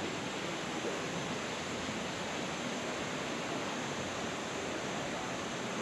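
La Fortuna waterfall rushing: a steady, even roar of falling water with no breaks.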